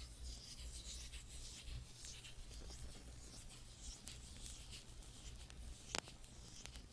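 Faint, soft scratching and rubbing, close-miked, with small ticks throughout and one sharp click about six seconds in.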